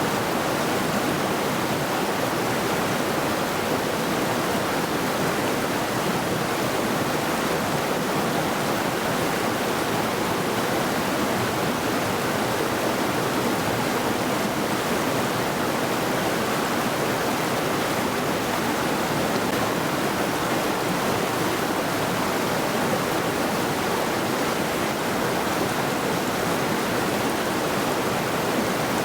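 A rocky mountain river rushing steadily over its bed, an even, unbroken water noise.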